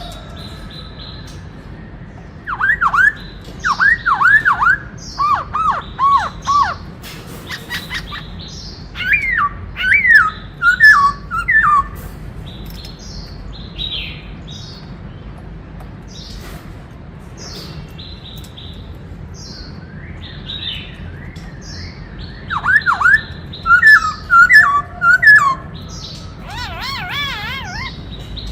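Black-throated laughingthrush (khướu bạc má) singing: loud runs of swooping whistled notes in three spells separated by pauses of several seconds, then a quick wavering warble near the end.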